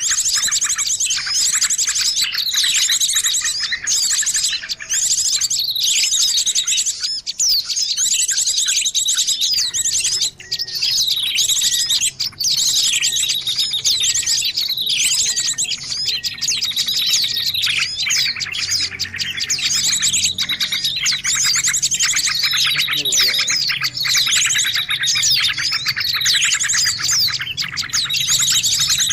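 Many small songbirds chirping and twittering at once in a dense, unbroken chorus of rapid high trills and short falling whistles. It is a mixed bird-lure (pikat) recording made to draw small birds in.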